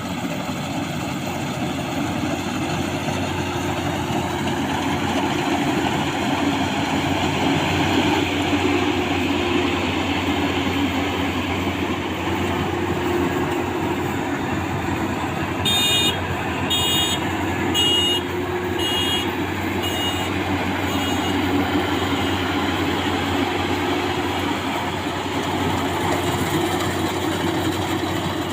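Maxxi Bimo 102L combine harvester running steadily while working at full load. About halfway through, a series of about six short high beeps sounds, roughly one a second, growing fainter.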